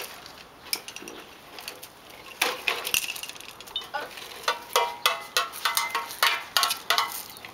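Small rocks clattering and clinking as toy trucks scoop, push and dump them: a run of sharp, uneven clicks that grows busier in the second half.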